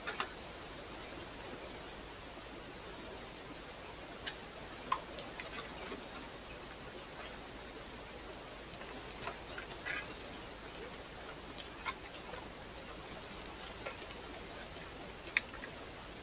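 Scattered, irregular sharp ticks and taps, about a dozen, over a steady low hiss from a trail camera's microphone.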